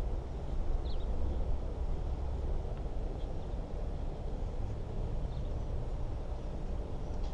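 Outdoor ambience: a steady low rumble, with a few short, faint bird chirps about a second, three seconds and five seconds in.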